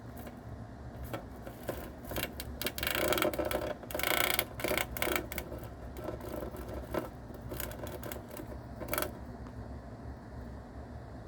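A mouse chewing and tearing at a cicada's hard shell and wings: bursts of rapid crackling and rustling, densest a couple of seconds in, with a few scattered crackles later.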